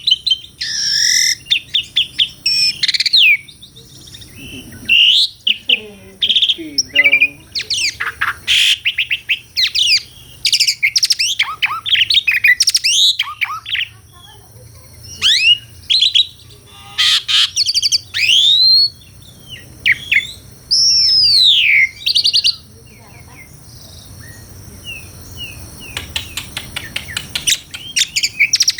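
Asian pied starling (jalak suren) singing a varied song in loud bursts: clear whistles, rising and falling glides, harsh notes and rapid clicking runs, broken by short pauses.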